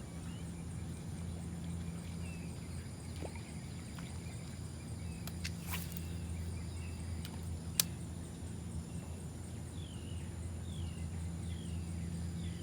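Outdoor ambience: a steady low rumble, a sharp click about eight seconds in, and a bird's short, falling chirps repeating near the end.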